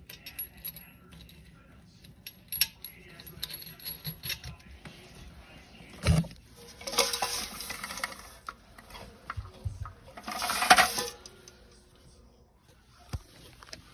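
Small hard objects clinking and knocking, with a heavy thump about six seconds in and two noisy stretches of about a second each after it.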